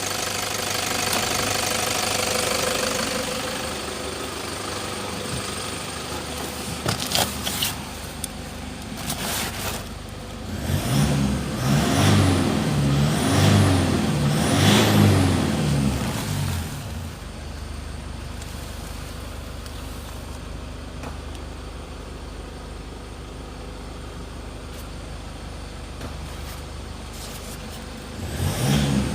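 Toyota Hilux 3.0-litre diesel engine idling, then revved in a series of quick blips for about six seconds from ten seconds in, settling back to idle. It is revved again near the end.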